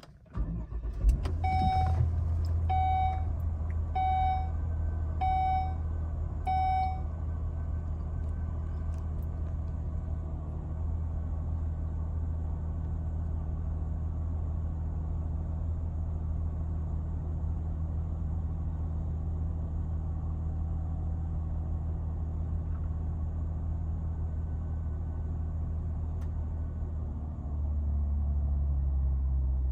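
2012 Volvo XC70 T6's turbocharged 3.0-litre straight-six cold-starting about a second in, then idling steadily. A warning chime beeps five times, evenly spaced, over the first few seconds, and the idle note drops lower and gets a little louder near the end.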